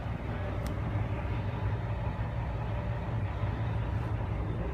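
Detroit DD15 inline-six diesel engine of a 2010 Freightliner Cascadia idling steadily, with one brief faint tick about half a second in.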